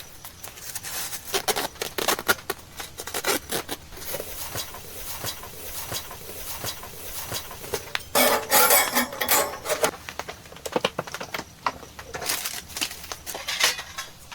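Irregular clicks, taps and rustling, as of things being handled, with a louder rustling burst about eight seconds in and a shorter one near the end.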